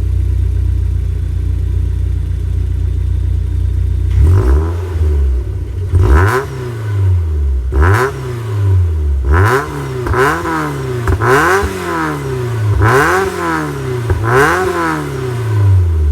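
Supercharged Mazda MX-5 engine with a Cobra exhaust idling, then blipped up and back down about eight times in quick succession from about four seconds in. It settles back to idle near the end.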